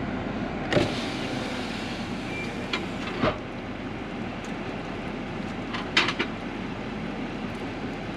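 Steady road noise from a moving vehicle, with three sharp clicks or knocks: one about a second in, one past three seconds and one around six seconds.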